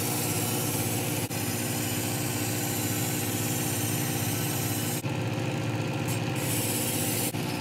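Work Sharp Ken Onion Edition belt knife sharpener running steadily, a kitchen knife's edge ground against the moving belt with a hissing grind. The hiss thins out about five seconds in and comes back near the end.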